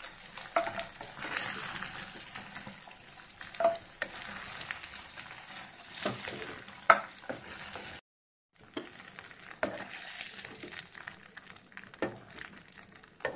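Chicken pieces sizzling in hot oil in a frying pan while a wooden spatula stirs and scoops them out, with scattered knocks and scrapes of the spatula against the pan. The sound breaks off for about half a second roughly eight seconds in.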